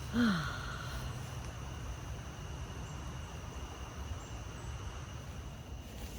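Outdoor background of wind rumbling on the microphone, with faint steady insect-like tones. Near the start there is one short pitched sound that falls in pitch.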